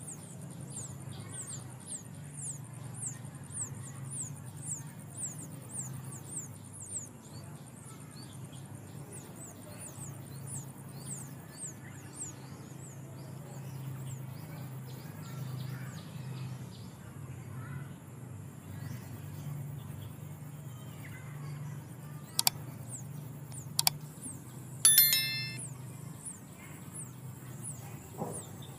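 Outdoor ambience of rapid, repeated high-pitched chirping, like insects trilling, over a steady low hum. Two sharp clicks come a little after the middle, followed by a short high call.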